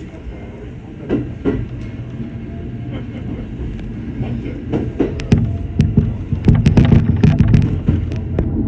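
Electric local train pulling away and gathering speed, heard from inside the front car: the low running rumble grows louder. In the second half, sharp clicks and knocks from the wheels over the rail joints come thick and fast.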